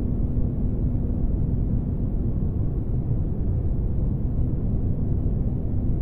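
Spaceship ambience noise: a steady, deep rumble with a faint steady hum running through it.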